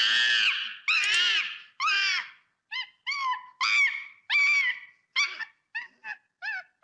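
A monkey giving a string of high-pitched calls, each rising then falling in pitch: three long ones first, then about nine shorter calls coming quicker.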